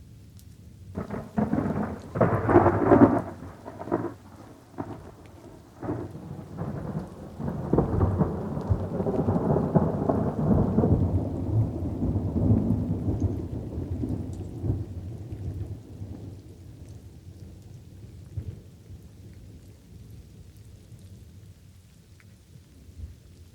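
Thunder over light rain: a sharp crackling clap about a second in, then a long rolling rumble that swells and slowly fades away. Soft rain hiss continues underneath.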